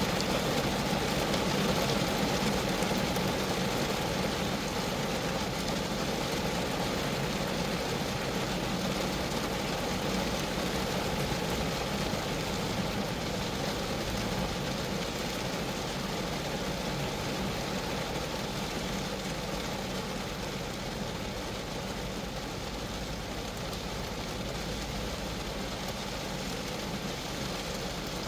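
Steady rain falling on a Geo Metro, countless drops hitting the small car's sheet-metal body and glass in an even, unbroken patter.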